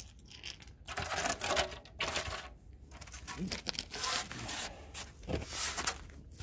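Irregular scraping and rubbing, in short noisy bursts about once a second, from hands working at a car's bumper and its fixings.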